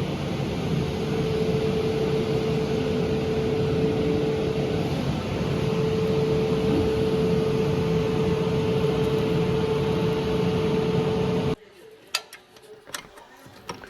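A steady machine drone with a constant mid-pitched whine that cuts off abruptly near the end, followed by a few light metallic clicks.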